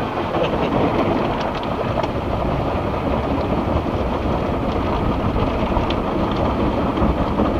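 Conveyor car wash running, heard from inside the car: a steady rush of water spray and washing equipment against the body, with a few faint ticks.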